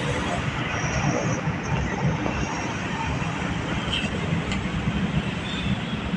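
A train running along the track at a distance: a steady low rumble with a hiss over it.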